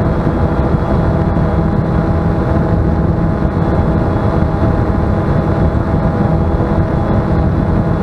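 Bayangtoys X21 quadcopter's motors and propellers running steadily in flight, a constant hum with several held tones, mixed with wind rumble.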